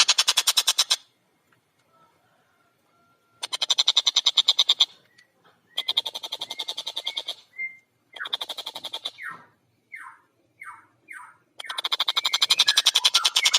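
Tengkek buto kingfisher giving its loud laughing chatter: bursts of very rapid, evenly repeated notes with short pauses between. Four short falling notes come after about nine seconds, and then a long chattering run near the end.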